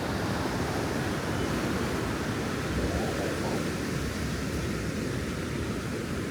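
Ocean surf washing steadily onto a beach, an even rushing noise with a low rumble and no separate breaks standing out.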